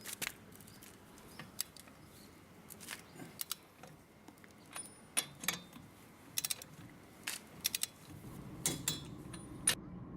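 Irregular metallic clicks and clinks of hand tools and wheel nuts being worked during a car tyre change, with two short high-pitched pings, about halfway through and near the end.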